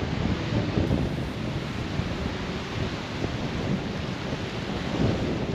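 Strong wind buffeting the microphone in a gusting low rumble over the steady hiss of Atlantic surf breaking on the beach.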